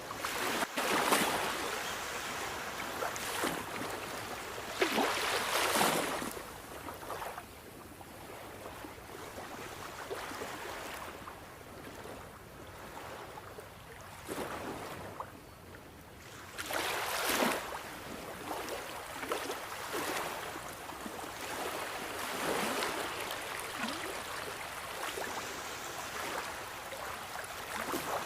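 Sea waves breaking and washing up the shore, a steady hiss of surf that swells into louder washes several times and then falls back.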